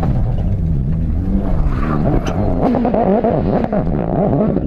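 Rally car engine at high revs, its pitch swinging up and down rapidly through gear changes and throttle lifts, loudest and busiest in the second half.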